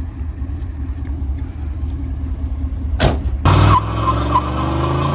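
1985 Chevrolet Camaro IROC-Z's 305 V8 running at idle. A sharp click comes about three seconds in, then the engine revs up with rising pitch as the car gets under way, with a steady high whine on top.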